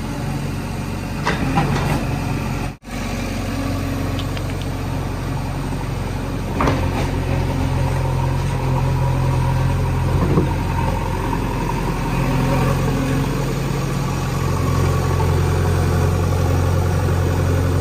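JCB 3DX backhoe loader's diesel engine running steadily, with a few short clanks. The sound drops out briefly about three seconds in.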